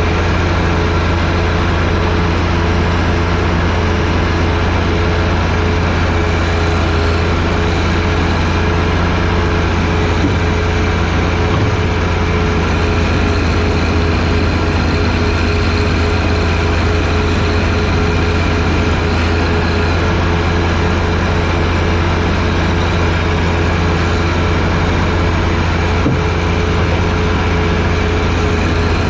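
John Deere 1025R sub-compact tractor's three-cylinder diesel engine running steadily at a constant speed while powering a 47-inch snowblower.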